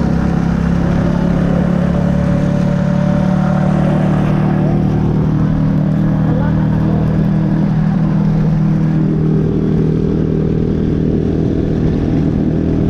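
Motorbike engine running at a steady pitch while riding, with rumble and buffeting underneath; a slightly different engine note joins about nine seconds in.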